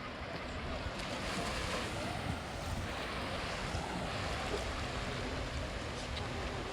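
Sea waves breaking and washing up on a sandy beach, the surf rising and falling in washes, with wind rumbling on the microphone.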